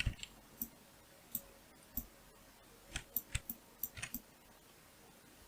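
Scattered clicks of a computer mouse and keyboard during 3D modelling work, about a dozen short clicks, some in quick runs, that stop a little after four seconds in.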